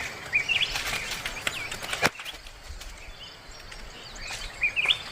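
Short, high bird chirps repeating on and off, with one sharp click about two seconds in.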